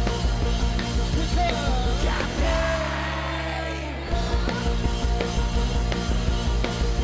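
Live rock band playing loud distorted electric guitars, bass and drums. Shortly after two seconds in, the beat drops out under a held chord with sliding, bending guitar lines, and the full band comes back in about four seconds in.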